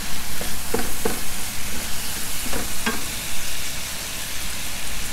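Diced chicken sizzling in hot oil with spices in a nonstick frying pan, stirred with a wooden spatula, with a few short knocks and scrapes of the spatula against the pan.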